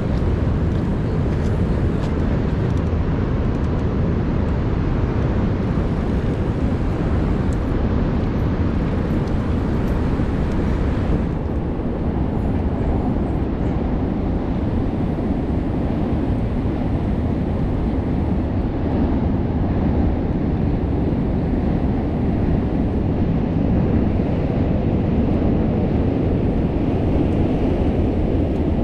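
Steady low rumble of wind on the microphone of a camera carried on a moving bicycle. The upper hiss eases a little about eleven seconds in.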